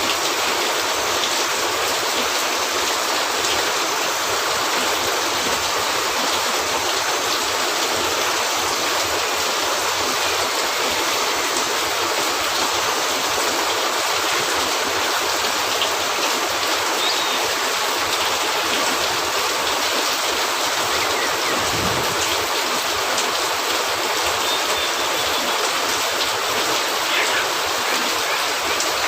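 Steady rain on a cabin roof, an even, unbroken hiss, with a few faint ticks scattered through it.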